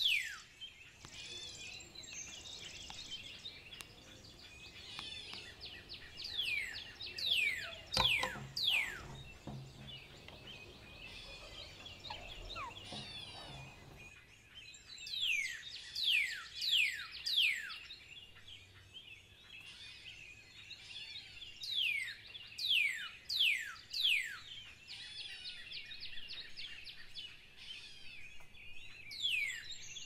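Birds calling: short, sharp whistles that slide downward in pitch, coming in quick runs of several with softer chirping between the runs.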